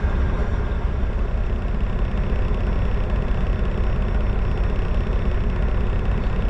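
Steady low rumble of a truck's engine and road noise heard from inside the cab while driving slowly.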